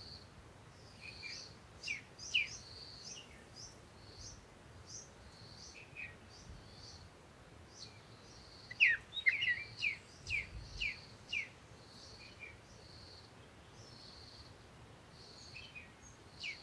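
Birds chirping: a steady run of short high notes about twice a second, with bursts of quick falling chirps, the loudest cluster about halfway through.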